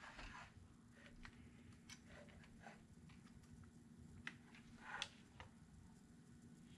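Near silence, with a few faint light clicks and a short scrape about five seconds in, from plastic instrument-cluster parts being handled and fitted, over a faint steady hum.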